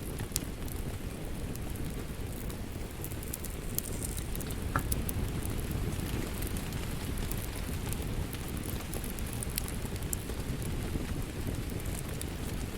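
Wood fire crackling: a steady low rumble of flames with scattered sharp pops and snaps throughout.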